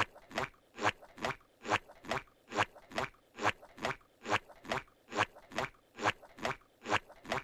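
Steady crunching chewing of something hard and crunchy, about two crunches a second.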